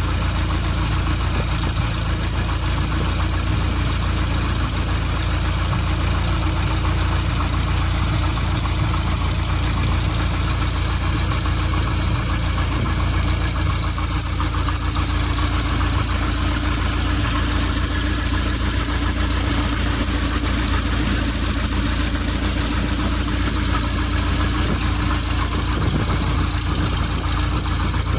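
Engine and propeller of a small two-seat fixed-wing aircraft running steadily, a constant low drone with no change in pitch.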